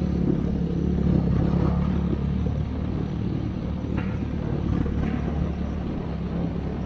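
An engine running steadily at one speed, a low rumble that slowly fades, with a couple of faint ticks near the middle.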